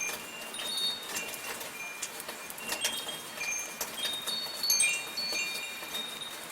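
Metal wind chimes ringing in irregular, overlapping high notes, over a steady hiss of soft rain.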